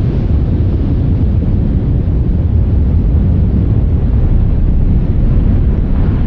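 A loud, steady low rumble of noise with no distinct events.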